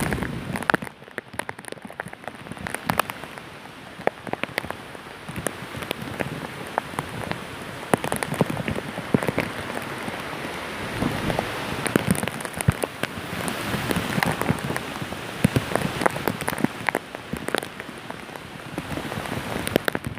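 Heavy cyclone rain beating on a surface, a dense hiss dotted with many sharp drop hits, swelling and easing in waves.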